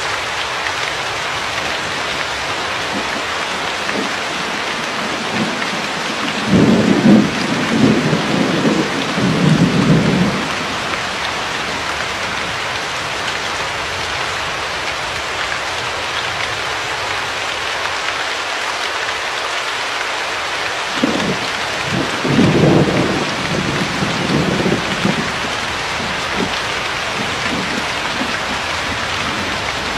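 Steady hiss of heavy rain falling, with low rolls of thunder rumbling twice: once for about four seconds a quarter of the way in, and again about two thirds of the way in.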